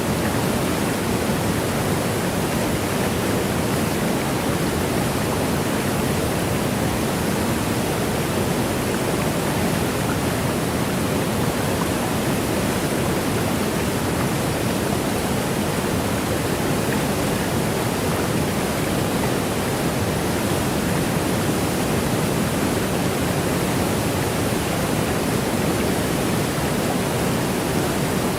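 Waterfall's steady, unbroken rush of falling water, strongest in the low-middle range with a fainter hiss above, and no change or separate splashes.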